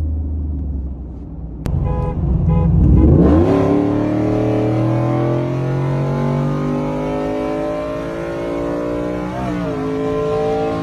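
Naturally aspirated Ford F-150 engine launching at full throttle from a low rumble, its pitch climbing steadily for about six seconds. The pitch dips briefly at an upshift near the end, then climbs again. A sharp click comes just before the launch.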